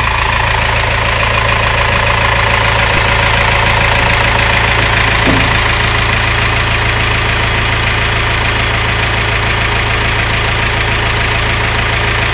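Yanmar EF23Z engine running steadily at idle, with an even, unchanging note.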